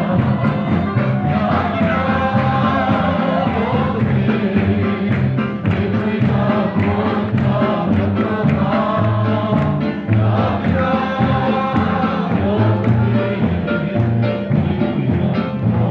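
Several voices singing together over music with a pulsing bass line.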